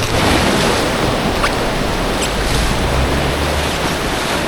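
Rushing creek whitewater around an inflatable kayak, a steady loud hiss, with wind rumbling on the microphone.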